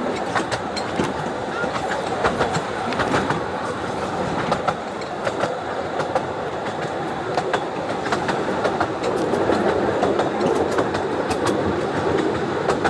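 Ravenglass & Eskdale Railway 15-inch narrow-gauge train running along the line: a steady rumble of the wheels with frequent sharp clicks as they pass over the rail joints, growing slightly louder in the second half.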